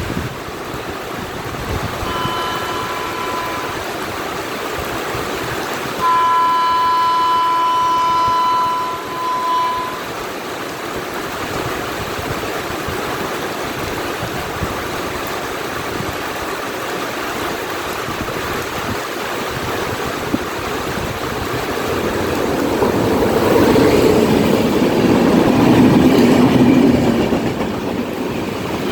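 Steady heavy-rain hiss with a train horn: a short toot about two seconds in, then a long loud blast from about six to nine and a half seconds. Near the end a louder rumble of the train rises and fades.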